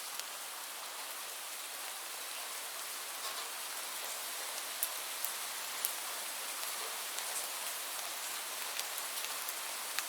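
Steady rainfall: an even hiss of rain with scattered louder drops ticking on a surface.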